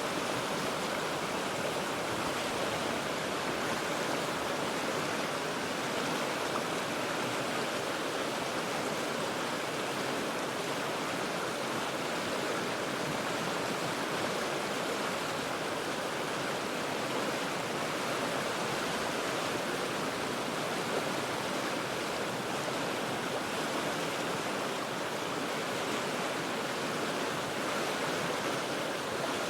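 The Cheat River rushing steadily over rocks, heard from about forty feet above: an even, unbroken wash of water noise.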